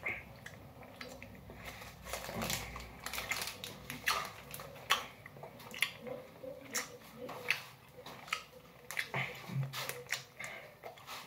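A person chewing a soft sour gummy candy with the mouth partly open: a run of wet smacks and clicks.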